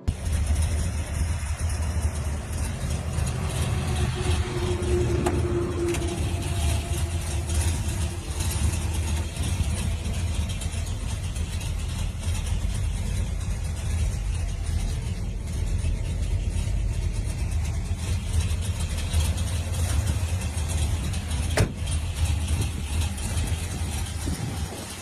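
Car engine running steadily at idle, its sound mostly low and deep, with one sharp click about three-quarters of the way through.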